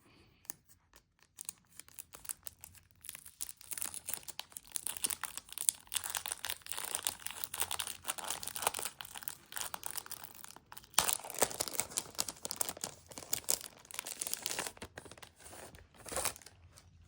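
Plastic and paper packaging crinkling and tearing as an album's contents are unwrapped and handled, in dense irregular crackles that grow busiest and loudest past the middle and stop just before the end.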